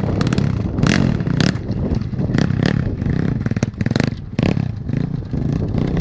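Pit bike engine running, its loudness rising and falling unevenly, with irregular clattering knocks over it.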